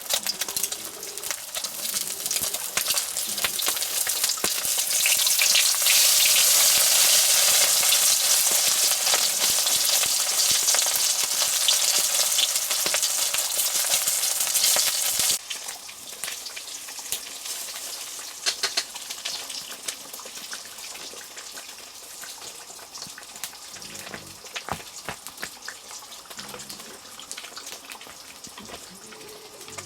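Food frying in a hot pan: a loud sizzle for the first half, then a sudden drop to a quieter sizzle with scattered crackles and clicks.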